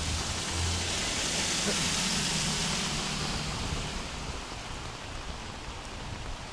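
Heavy rain and rushing floodwater in a street, a steady hiss. A low rumble swells under it and fades out about four seconds in.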